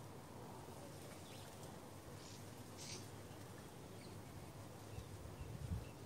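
A few faint, short chirps from small garden birds, the clearest about three seconds in, over a steady low hiss. Near the end come some low rumbling thumps.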